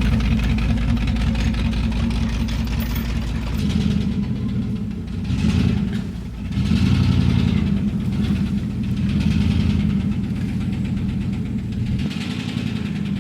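Engine of the vehicle towing the log arch, running under load, its speed changing about four seconds in and rising and falling several times after.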